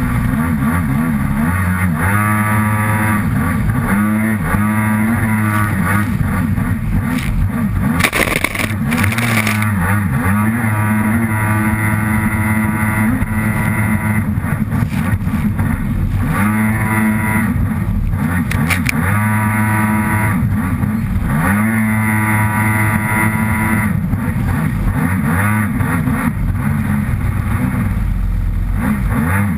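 Kawasaki SXR 800 stand-up jet ski's two-stroke twin engine running hard, heard from a camera mounted on the side of the hull, its revs climbing and dropping again and again with the throttle. A brief loud rush of noise cuts in about eight seconds in.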